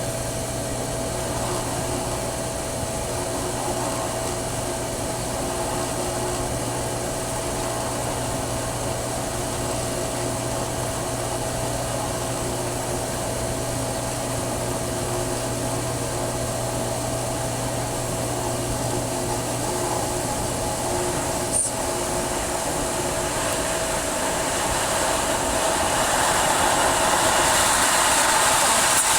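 Pool pump's electric motor running with a steady hum over a hiss of water; the hiss grows louder near the end.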